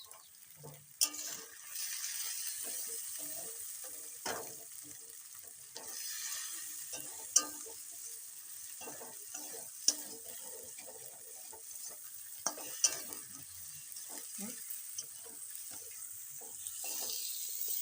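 A spice masala of onion, garlic and ginger paste and ground spices frying in mustard oil in a kadai. It sizzles steadily as a spatula stirs it, and the spatula knocks sharply against the pan several times.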